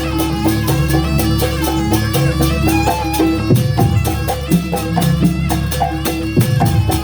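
Live Banyuwangi jaranan ensemble music: a melody line moving up and down over a fast, even percussion beat and a steady low tone.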